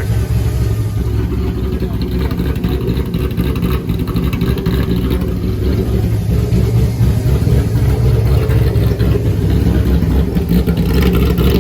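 Supercharged engine running steadily at idle, growing a little louder in the second half.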